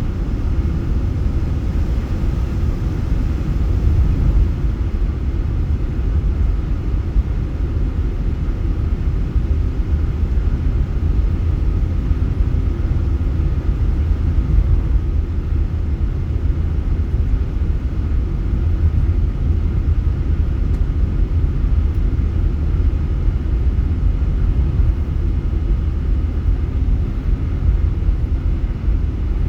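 Steady low rumble of a Boeing 747-8 jet airliner in flight, engine and airflow noise as heard inside the passenger cabin.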